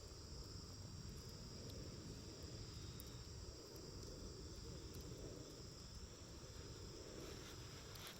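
Crickets trilling steadily in a high band, with a few faint snaps from a wood campfire and a low steady noise beneath.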